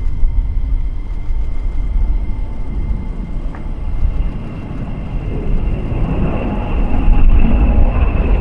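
B-2 Spirit stealth bomber's four turbofan jet engines heard as a low rumble that swells louder over the last few seconds as it nears. A thin high whine comes in about halfway through.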